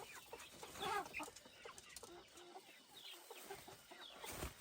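Chickens clucking and chirping, many short calls overlapping, with the loudest call about a second in.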